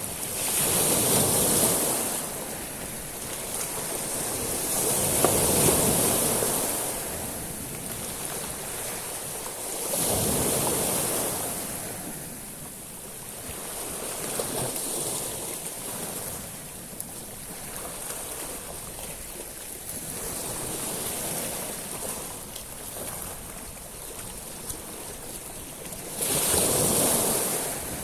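Sea waves breaking and washing over a shingle beach of small stones. The surges come every few seconds, with the loudest near the start and a sudden surge near the end, and faint ticks of pebbles can be heard between them.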